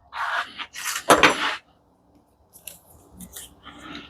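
Metal parts from a dismantled commercial coffee machine clattering and scraping as they are handled. Two louder clatters come in the first second and a half, then light taps and scrapes.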